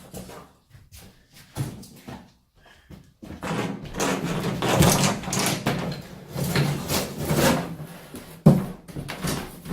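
Knocks, scrapes and rattles of things being handled and shifted, quiet for the first three seconds and then busy, with one sharp knock about eight and a half seconds in, the loudest.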